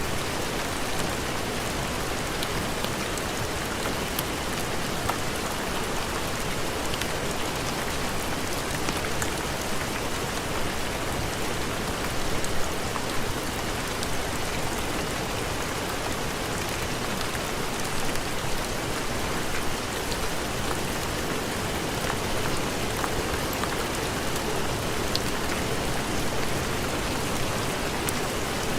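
Steady heavy rain: an even hiss with scattered small ticks of drops.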